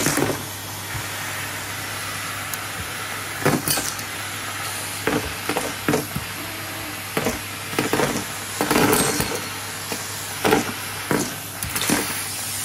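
Numatic Hetty tub vacuum cleaner running steadily with its motor hum. Irregular sharp crackles and clicks come through about a dozen times, as bits of debris are sucked up and the tool knocks on the floor.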